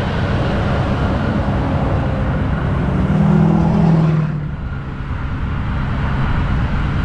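A motor vehicle engine running steadily with a low hum, swelling louder for about a second around three seconds in.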